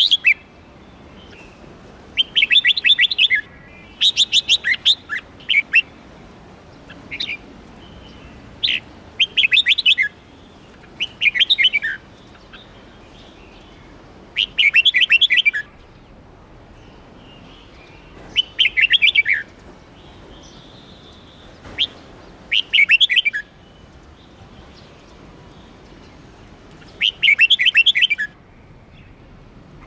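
Red-whiskered bulbul singing: bursts of quick, bright notes about a second long, repeated every few seconds, with single short calls between them.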